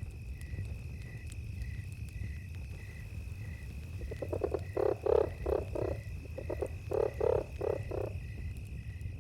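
A frog croaking in two runs of rapid pulsed calls, starting about four seconds in, over a steady cricket trill with a regular chirp about twice a second and a low campfire rumble.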